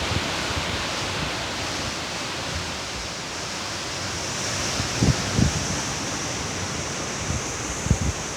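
Heavy storm rain and wind making a steady, even roar. A few short low thumps of wind buffeting the microphone come about five seconds in and again near the end.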